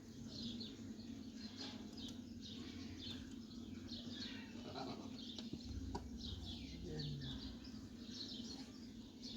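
Birds chirping: many short, high calls scattered throughout, over a faint steady low background hum.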